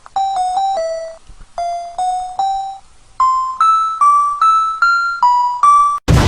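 A high keyboard melody played one note at a time, about fifteen short notes in three phrases, each note fading after it sounds. Just before the end, a sudden loud noisy burst cuts in.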